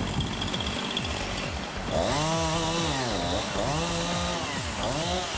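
A small engine revving up and down three times, starting about two seconds in, each rev rising, holding, then falling.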